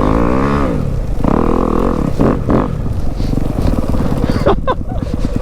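Dirt bike engine revving up and easing off as the bike rides through snow. It drops to a lower, slower, evenly pulsing beat for the last couple of seconds.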